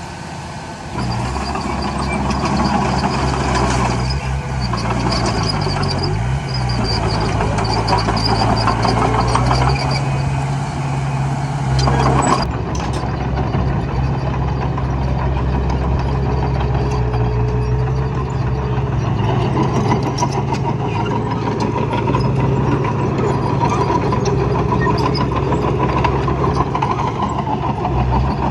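Heavy diesel engine of earthmoving machinery running steadily, its pitch dipping and rising again a few seconds in as the load or throttle changes. A brief loud clatter about twelve seconds in.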